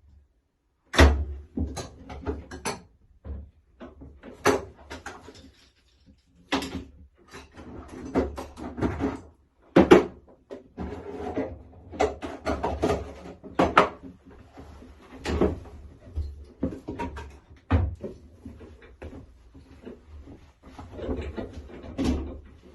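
Irregular knocks, bumps and clattering: many sharp hits, some with a low thump.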